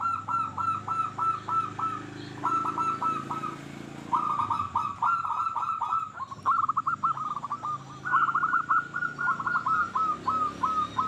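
Zebra dove (perkutut) singing: bouts of rapid, short cooing notes, about five a second, each bout lasting one to three seconds with brief pauses between.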